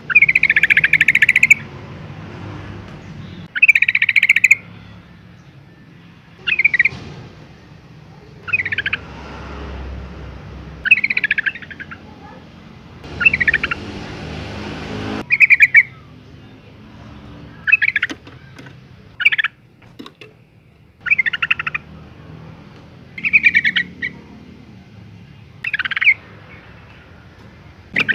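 Female yellow-vented bulbul calling in short, bright chattering phrases, repeated about every two seconds. This is the call a female in breeding condition uses to call a male.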